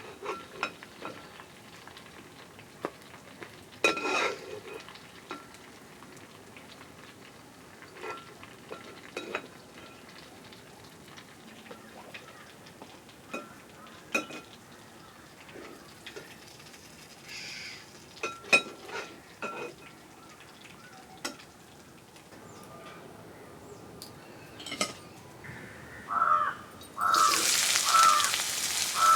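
Scattered clinks and scrapes of a utensil in a cooking pan. Near the end, a loud sizzle of food frying in hot oil starts suddenly, and crows caw repeatedly.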